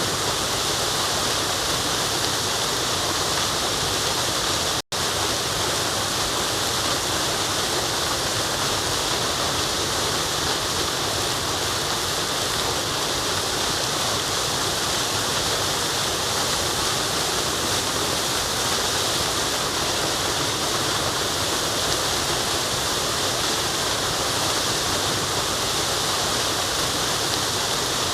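Forest waterfall rushing in a steady, unbroken wash of water noise. The sound cuts out for an instant a little under five seconds in, then resumes unchanged.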